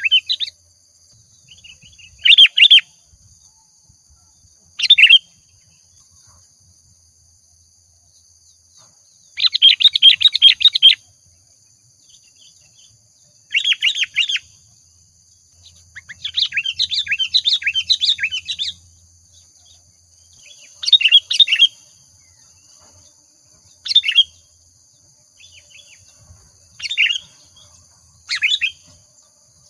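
Sooty-headed bulbul (kutilang) singing in full 'gacor' song, the kind played as a lure to spur other bulbuls to sing. It gives short, bright, rapid chattering phrases every two to four seconds, a few stretching past a second, over a faint steady high whine.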